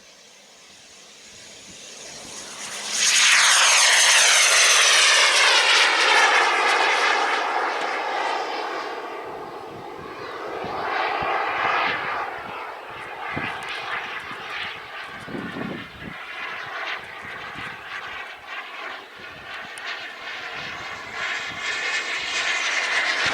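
Radio-controlled model aircraft flying past: the engine sound builds, passes loudly about three seconds in with its pitch falling as it goes by, then fades and swells again as the model circles.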